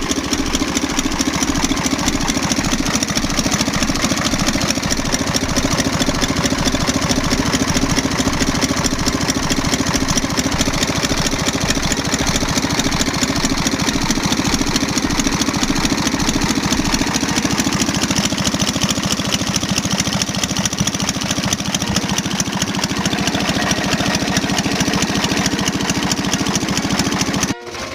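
Eicher 368 tractor's diesel engine running steadily with a fast, even beat; it cuts off abruptly near the end.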